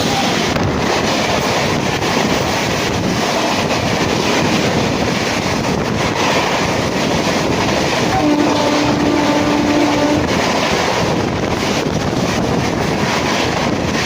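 Express passenger train hauled by a WAP-7 electric locomotive passing at speed close by: a loud, steady rush of wheel, track and air noise. A faint low steady tone sounds for about two seconds a little past the middle.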